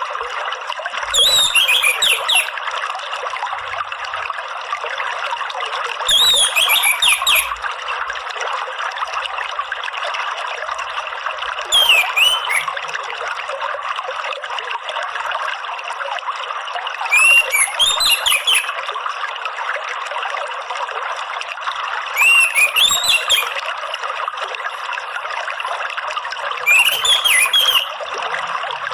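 Orange-headed thrush singing short phrases of quick, gliding whistles, six of them about five seconds apart, over a steady sound of trickling running water.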